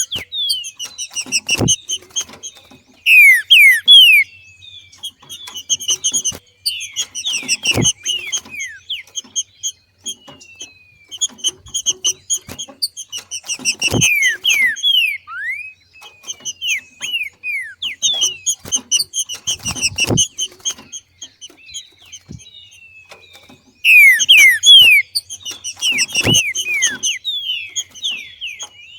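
Female trinca-ferro (green-winged saltator) giving its macheado call, the breeding-condition call that stirs males to sing: rapid high chips and downward-slurred whistled notes in bouts repeating about every six seconds. The loudest, densest bursts come about three seconds in and again near the end, and a short low thump sits in each bout.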